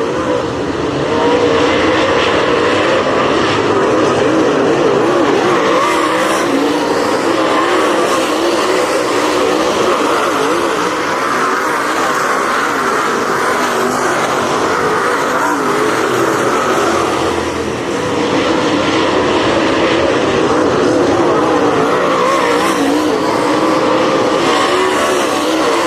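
Several dirt-track race cars running at speed around the oval, their engine notes wavering up and down as the cars circle, with a brief dip in level about two-thirds of the way in.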